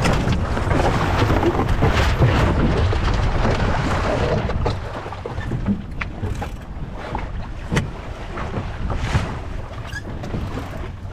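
470 sailing dinghy tacking in light air, heard from aboard: a rush of wind and water noise that is loudest for the first four seconds or so, then eases. Through it come scattered sharp clicks and knocks from the boat's fittings and gear.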